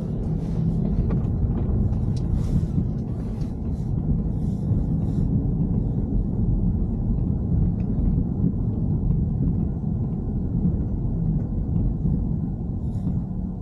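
Steady low rumble of a BMW E90 3 Series, engine and road noise as heard from inside the car, with a few brief hissing sounds in the first five seconds.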